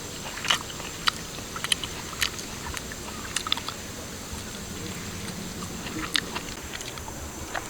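A person eating roasted duck meat: irregular crunchy bites and chewing clicks.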